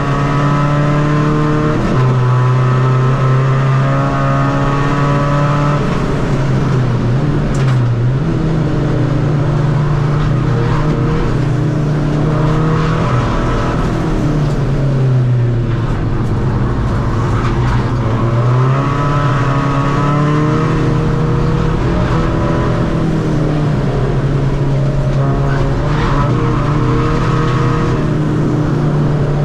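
Tuned 2.0 common-rail diesel engine of a Seat Ibiza FR driven hard. The engine note holds under load, then drops and climbs again several times as the car shifts gear and slows and accelerates through corners.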